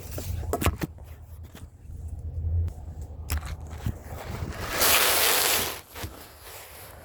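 Several sharp knocks and clicks, then a loud rustling scrape about five seconds in that lasts about a second, over a low rumble.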